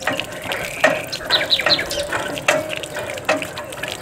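Water spurting and splashing from a miniature hand pump, in pulses a little more than once a second, with a few short bird chirps.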